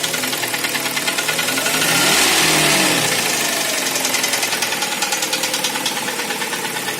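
Kia Sportage SL engine running with a steady rapid knocking, revved up once about two seconds in and settling back to idle. The knock is taken by the owner for a sign that the engine needs an overhaul.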